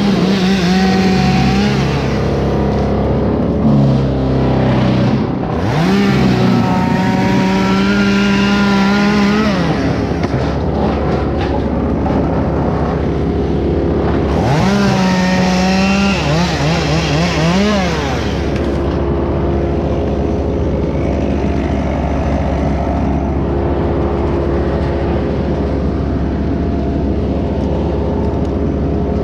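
Two-stroke gasoline chainsaw revving up and running under load in several bursts, its pitch gliding up and dropping back, then a steadier engine drone through the latter part.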